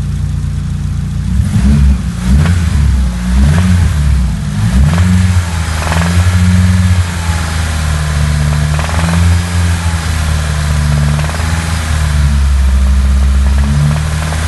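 Nissan SR20DET turbocharged inline-four engine running and being revved in short blips during the first half, then held at a steadier speed, with a knocking sound that the owner cannot place: lifters or a connecting rod.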